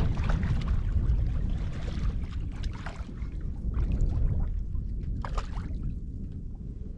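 Strong wind buffeting the microphone, with short splashes and trickles of water through it.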